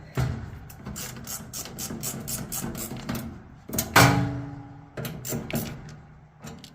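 Ratcheting screwdriver clicking in quick, even strokes as screws are driven into a dryer's heater bracket, with a louder metallic clank that rings briefly about four seconds in.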